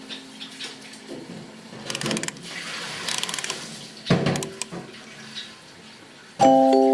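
Scattered small clicks, scrapes and rustling with a few louder noisy bursts in a break in the music, then background mallet-percussion music with steady chiming tones coming back in near the end.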